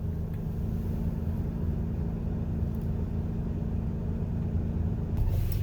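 A vehicle's engine running steadily with low road rumble while driving slowly; a high hiss joins about five seconds in.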